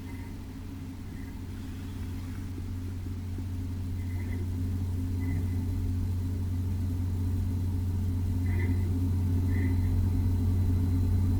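Gigabyte GeForce RTX 3060 WINDFORCE OC graphics card's cooling fans running with a rattling sound. There is a steady low hum that grows gradually louder, with brief faint chirps every second or few seconds.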